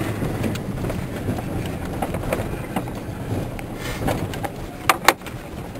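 Footsteps crunching through snow, with wind on the microphone and two sharp clicks about five seconds in.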